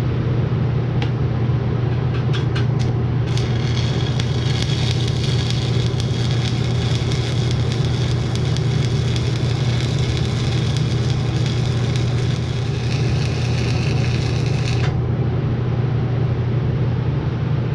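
Stick-welding arc on a flux-coated electrode at about 120 amps: a few short crackles as the rod is struck, then a steady crackling sizzle for about eleven seconds that cuts off suddenly as the arc is broken. A steady low hum runs underneath.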